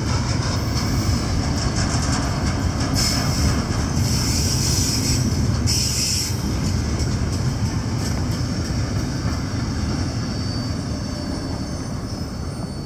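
Double-stack intermodal container train rolling past: steel wheels rumbling and clattering on the rails, with bursts of high-pitched wheel squeal a few seconds in. The rumble eases slightly near the end.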